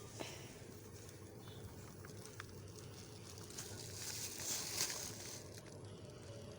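Ghee being spooned into a pan on the stove: a few faint clicks and a soft hiss that swells for a couple of seconds midway, over a steady low hum.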